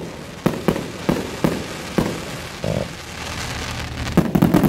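Fireworks display: shells bursting in a string of separate sharp bangs, a crackling hiss after about three seconds, and a quick cluster of bangs near the end.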